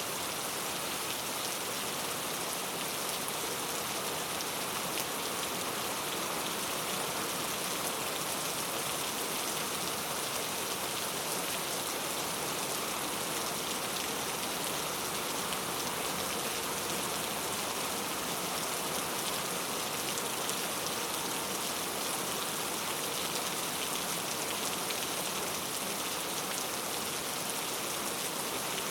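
Steady rain falling, an even patter of drops with no change in strength.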